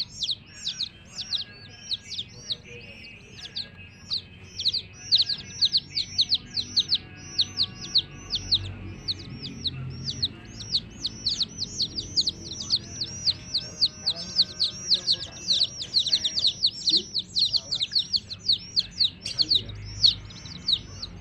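A group of baby chicks peeping continuously: many high, sharply falling chirps overlapping one another, several a second.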